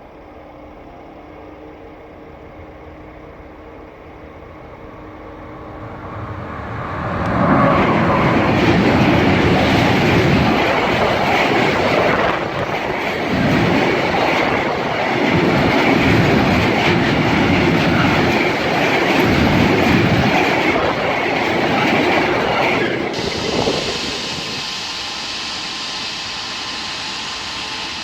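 A train approaching and passing close by: the noise builds for a couple of seconds, then about fifteen seconds of loud running noise and wheel clatter, swelling and easing every two to three seconds as the cars go by, and it drops off suddenly once the train has passed.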